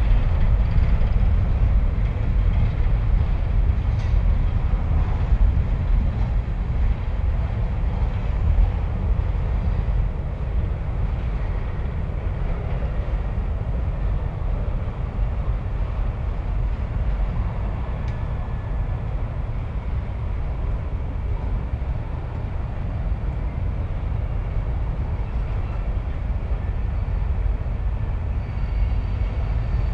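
Freight train rolling past: a steady heavy rumble of the cars on the rails, a little louder in the first ten seconds, then level.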